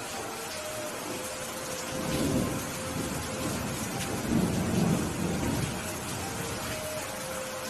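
Steady rain falling, with thunder rumbling twice: a short roll about two seconds in and a longer, louder one from about four to five and a half seconds in.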